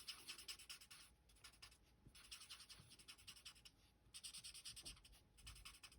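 Faint, quick scratching of a Stampin' Blends alcohol marker tip colouring on cardstock, with a few short pauses between bursts of strokes.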